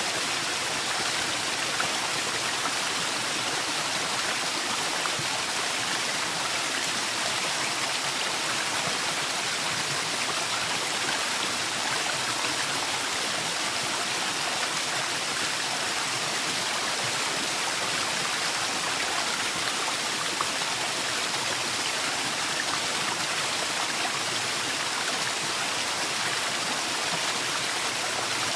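Waterfall in a forest: a steady, unbroken rush of falling water, even in level with no changes.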